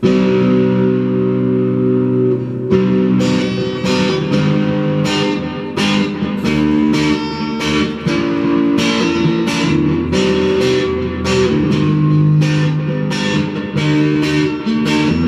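Electric guitar played loud through an amplifier: a chord rings out, then strummed chords repeat at a steady pace of about two strums a second.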